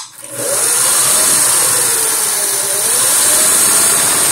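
Singer Touch and Sew 600E sewing machine starting with a click and running up to speed on its foot pedal, its motor pitch rising and falling as the speed is varied.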